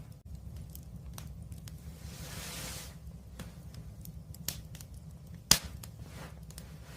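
Wood fire crackling over a low steady rumble, with scattered pops, a soft hiss of burning gas about two seconds in, and one loud sharp pop about five and a half seconds in.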